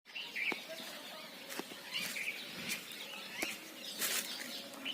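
Rose-ringed parakeets giving short, scattered chirping calls, with sharp clicks and knocks in between and a brief rustling burst near the end.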